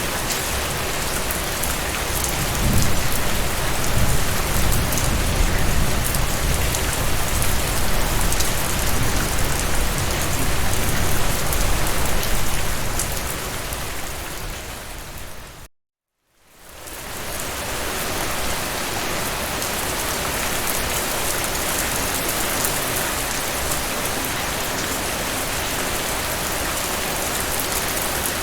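Steady rain falling, with a low rumble of thunder through the first half. About halfway the rain fades out to a moment of silence and then fades straight back in.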